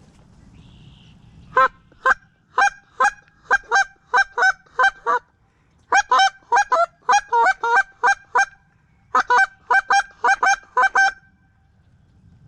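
Geese honking: three runs of short, sharp, loud honks, about two a second, with brief pauses between runs.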